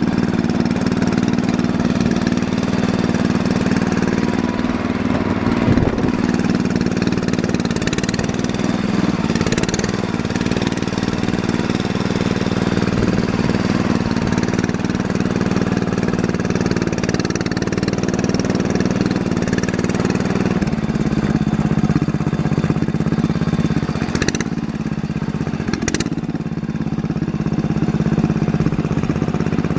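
Small garden tractor engine running steadily; its note shifts about 21 seconds in, as the engine speed or load changes. A few sharp knocks sound over it.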